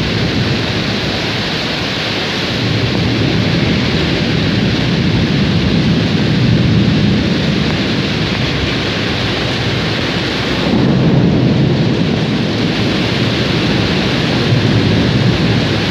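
Thunderstorm: steady heavy rain with thunder rumbling, swelling louder a few seconds in and again about two-thirds of the way through.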